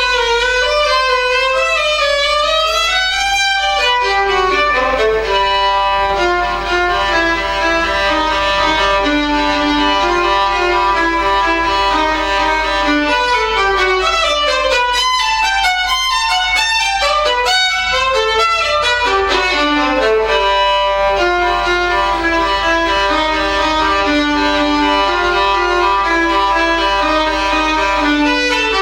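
Violin playing a fast classical passage: quick runs sweeping up and down the instrument, with held notes between.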